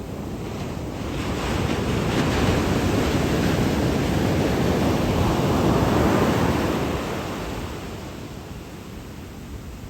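Sea waves surging onto the shore: one long rush of surf that builds over a second or two, holds for several seconds, then dies away near the end.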